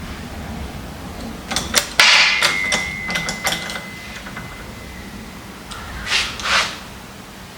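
Metal parts of a Kurt milling-machine vise being handled: a few light clicks, then a sharp metal strike about two seconds in that rings with one clear tone for about three seconds. Near the end come two short rubbing swishes.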